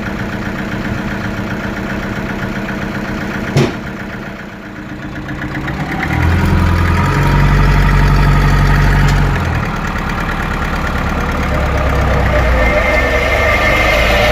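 Sawmill machinery running with a steady engine-like hum. About six seconds in it grows louder and deeper for a few seconds, then settles back. There is a single sharp knock just before four seconds.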